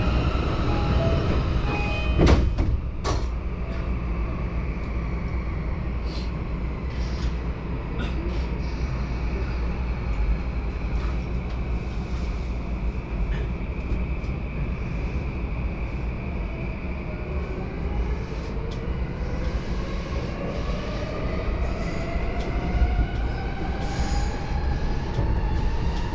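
Inside a JR Yamanote Line train car: the steady rumble of the train running, with a couple of sharp knocks a few seconds in. From about two-thirds of the way through, the electric traction motors' whine rises steadily in pitch as the train accelerates.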